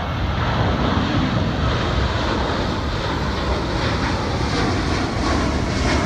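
Aeroplane engines running loud and steady, a dense, even rush of noise with no clear changes.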